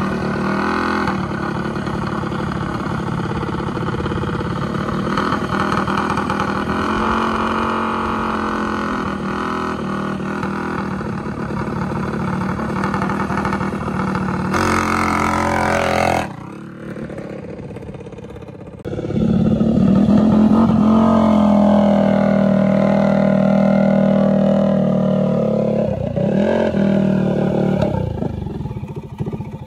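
Mini bike's small engine running at a steady speed for long stretches. About halfway through it drops off for a couple of seconds, then comes back louder and holds.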